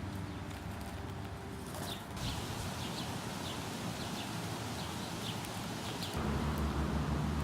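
Small birds chirping in short, repeated high notes, two or three a second, starting about two seconds in. Under them runs a steady low rumble that grows louder near the end.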